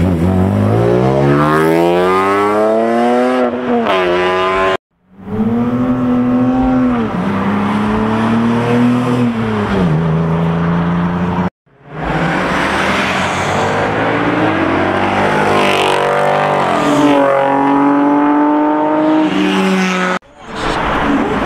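A drift car's engine revving hard, its pitch climbing steeply, held high and falling again several times, with tyre squeal from the car sliding. The sound cuts out abruptly three times where the recording is cut.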